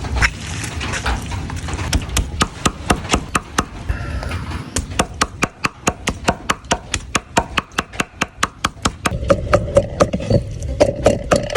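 Knife chopping food on a wooden cutting board in quick, even strokes, about four a second.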